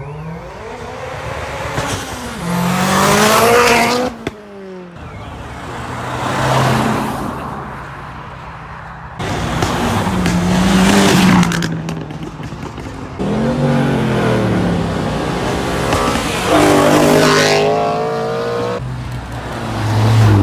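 Cars revving hard and launching one after another, the engine pitch climbing and dropping about six times with some tire squeal. Several of the runs start or stop suddenly.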